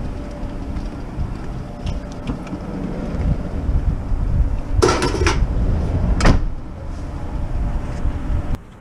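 Scrap metal being handled over a low rumble, with clanks and knocks about five seconds in and again a little over six seconds in. The sound drops away abruptly near the end.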